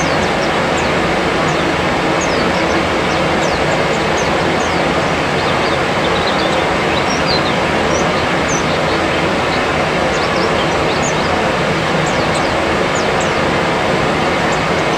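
A steady, loud rushing noise with many short, thin, high chirps of small birds, each falling in pitch, scattered throughout.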